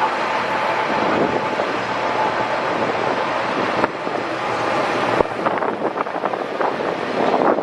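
A train moving through the station: a steady loud rush of noise, with a sharp click about five seconds in and rapid clicking over the last two seconds.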